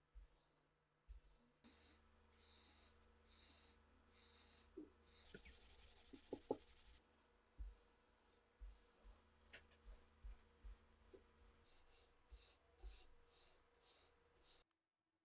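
A quiet run of short scratchy rubbing strokes, one or two a second, with a longer continuous scratchy stretch about five to seven seconds in. The sound cuts off suddenly near the end.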